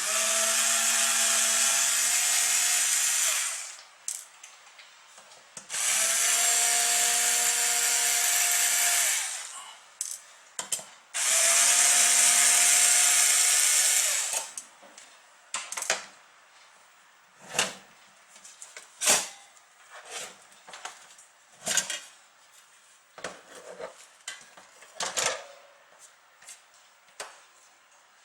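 A small handheld electric tool motor run in three bursts of about three seconds each, a steady hum over a strong hiss, followed by a series of sharp clicks and knocks of parts being handled.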